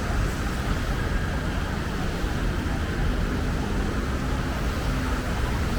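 Steady road traffic noise, an even rumble and hiss of passing vehicles without any single event standing out.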